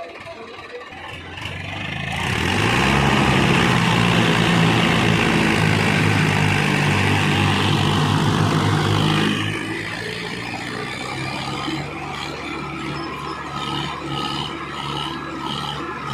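Diesel tractor engine revved hard against a heavy sugarcane load. It rises about two seconds in, runs loud for about seven seconds, then drops back to steadier, quieter running near the ten-second mark.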